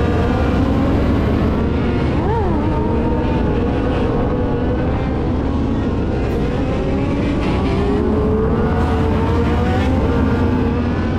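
Harley-Davidson V-twin motorcycle engines running at riding speed, their pitch slowly rising and falling. There is one quick rev up and back down about two seconds in.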